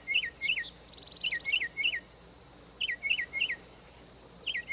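A songbird scolding in loud phrases of three or four quick down-slurred whistles, each phrase repeated about every second and a half. A short buzzy trill comes about a second in.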